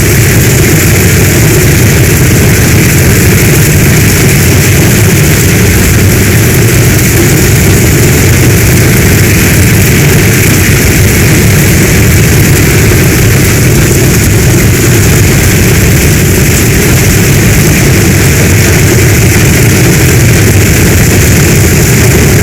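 Strong, steady storm rain with a deep continuous rumble beneath it, unbroken and without separate claps or drops standing out.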